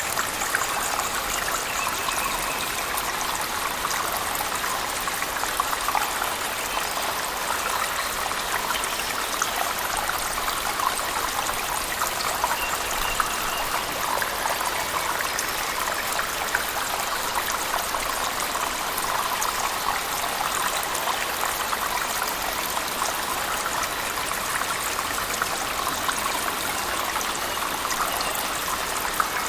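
Steady rush and splash of a cave waterfall mixed with heavy rain, with faint scattered drips in the even water noise.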